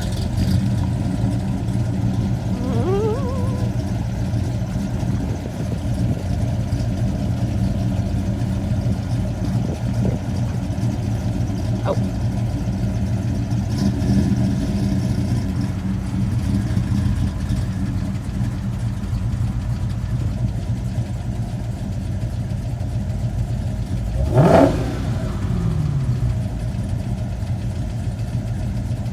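Car engines running with a steady low rumble. Late on, one brief, louder rev rises and falls in pitch.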